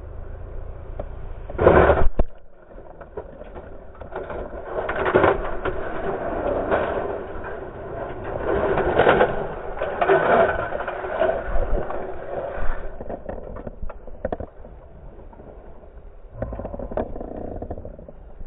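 A hard impact about two seconds in, then several seconds of uneven scraping and tumbling noise, dying down after about thirteen seconds: a motorcycle collision, with the SV650 and its rider hitting and sliding along the road.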